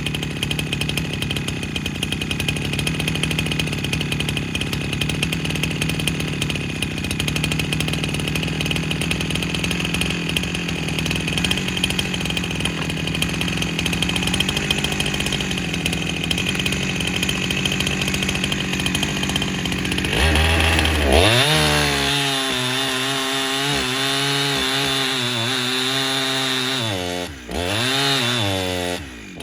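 Husqvarna 372XP kitsaw's two-stroke engine running steadily. About twenty seconds in the sound changes and the engine note dips and recovers several times, with two brief drops near the end.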